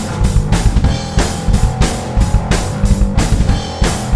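Rock music without vocals: electric bass guitar and a drum kit play an instrumental passage with a steady beat, with cymbal and drum hits about twice a second over the bass line.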